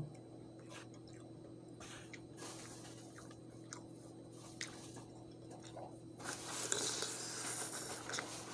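Close-miked wet chewing and mouth clicks of a person eating a soft, creamy broccoli, shrimp and sausage dish from a spoon. The mouth noise grows louder about six seconds in.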